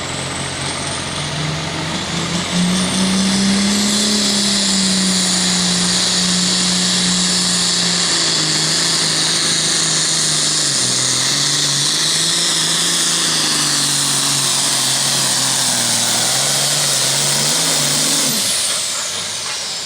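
Super farm pulling tractor's turbocharged diesel engine at full throttle during a pull, a loud high turbo whine over the engine note, which wavers up and down as the tractor works against the sled. Near the end the throttle comes off: the engine note drops sharply and the whine winds down.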